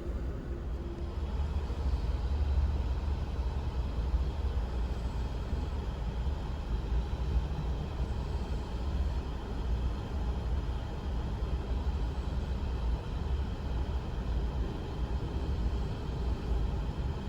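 Passenger train in motion, a steady low rumble of the running train heard from inside the car.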